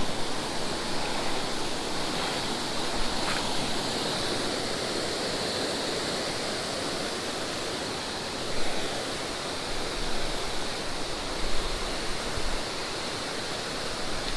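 Creek waterfall pouring, a constant rushing of water, with a few brief louder bumps about two-thirds of the way through.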